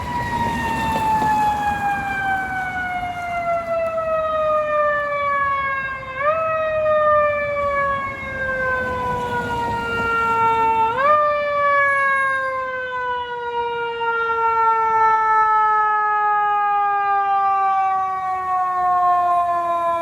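Fire apparatus siren wailing and slowly falling in pitch, pushed back up briefly twice, about six and eleven seconds in, then sliding down again and cutting off at the very end.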